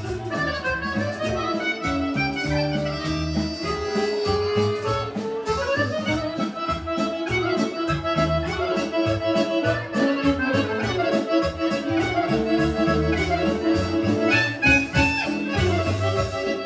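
Serbian folk band playing a fast mixed kolo dance tune: a quick accordion-led melody over a steady, even beat of bass and chords.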